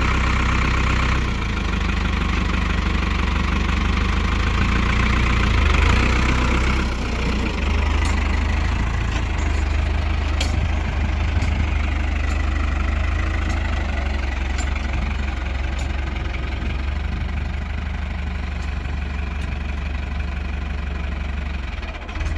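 Tractor engine running steadily, its low hum shifting in level about a second in and again around six to seven seconds.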